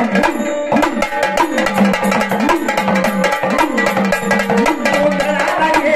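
Sambal, the paired drum of gondhal music, played in a fast, driving rhythm. Repeated strokes slide up and down in pitch over steady held notes, with no singing.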